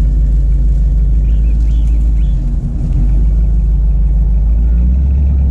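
Pizza truck's engine running with a steady low rumble as the truck pulls slowly out toward the road.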